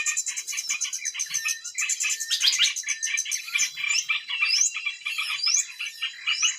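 Dense chorus of small birds chirping rapidly, with a high rising whistled note repeated about once a second in the second half.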